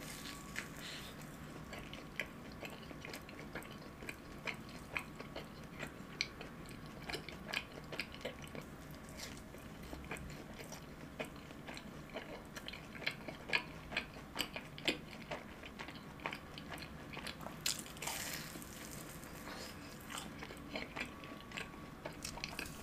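Close-up chewing of fried cheese balls, whose shell is crispy and chewy: a run of small wet clicks and soft crunches. A louder crunchy bite comes a little before the end.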